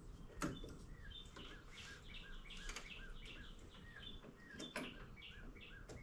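A small bird chirping over and over in short, quick, repeated notes, faint, with a couple of soft clicks about half a second in and near the end.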